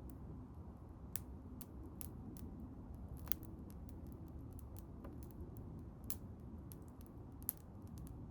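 Wood bonfire crackling, with irregular sharp pops and snaps over a low steady rumble of the burning fire; two pops stand out, one near the middle and one near the end.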